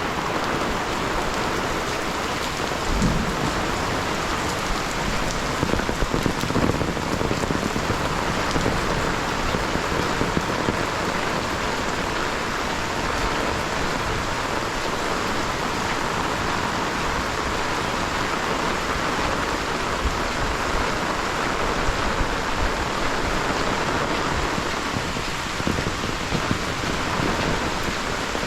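Heavy rain falling steadily, a dense even hiss of drops, with a few short low knocks here and there.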